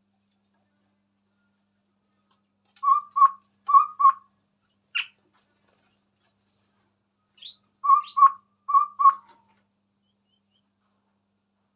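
Chestnut-rumped babbler singing: two phrases of four short, low hooting notes, about 3 and 8 seconds in, with a single sharp rising call between them and faint high chirps.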